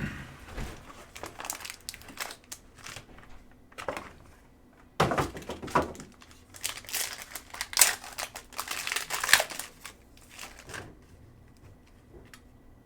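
Plastic wrapping crinkling and cardboard being handled as a sealed box of Topps Tier One baseball cards is opened, in irregular rustles and clicks. The loudest crinkling comes around the middle.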